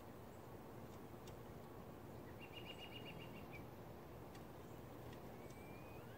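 A songbird's short, rapid trill, about ten even notes in just over a second, a little before the middle, over a faint steady background hiss. A faint rising whistle follows near the end.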